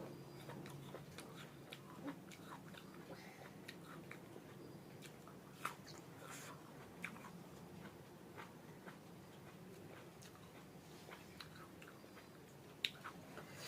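A person eating close to the microphone: quiet chewing and biting, with scattered small, sharp mouth clicks.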